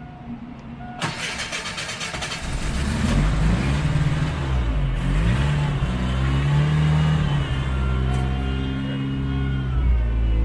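Fox-body Ford Mustang's 2.3-litre four-cylinder engine starting about a second in, then revved up and down a few times before it settles into steady running.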